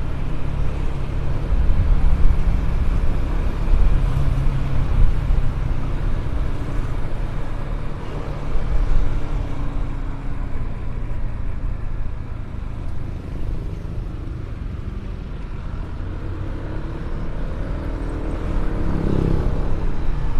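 Ride noise from a moving road vehicle: a low, uneven engine rumble with road and wind noise, swelling and easing as it goes, with a short rising sound near the end.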